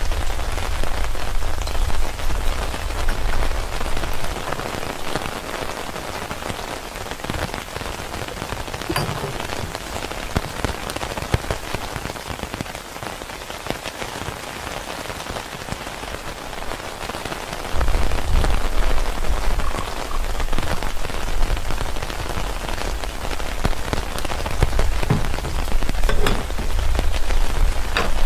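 Heavy rain falling steadily, an even hiss of many drops. A low rumble underneath is strong at the start and returns about two-thirds of the way through.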